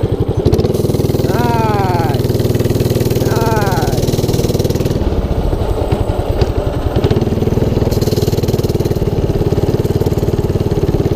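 212cc single-cylinder mini bike engine running under throttle while ridden, with a whine that falls in pitch twice in the first four seconds. The engine eases off around five seconds in, and a thump about six and a half seconds in fits the bike dropping off a curb onto its suspension.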